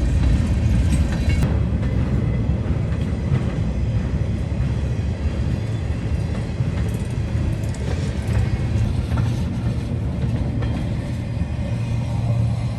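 CSX manifest freight train passing: a steady low rumble of steel wheels on the rails, with scattered light clicks.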